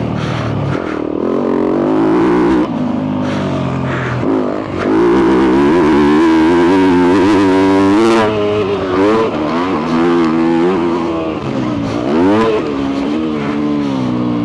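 2022 Yamaha YZ250F's 250cc four-stroke single-cylinder engine with a full FMF exhaust, revving hard as the dirt bike is raced, its pitch climbing and dropping again and again with throttle and gear changes. It is loudest about halfway through, with a fast wavering pitch.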